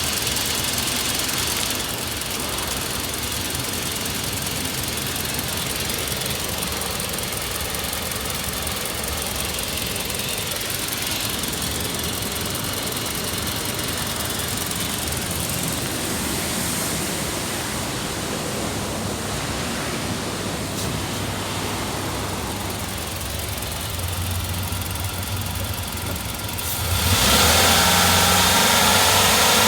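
Toyota Hiace 2.7-litre four-cylinder petrol engine running steadily at idle, then revved about three seconds before the end, its pitch climbing.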